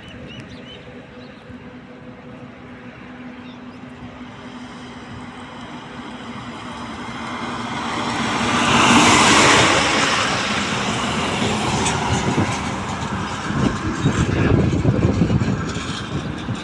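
A road vehicle passes by: its tyre and engine noise swells steadily to a peak about nine seconds in, then fades. Uneven low rumbling follows near the end.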